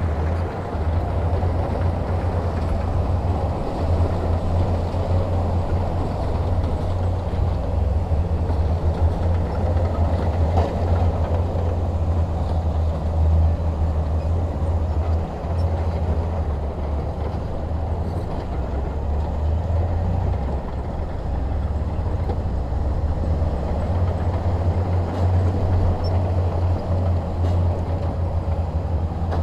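Heavy earthmoving-machinery diesel engine running steadily with a deep low rumble.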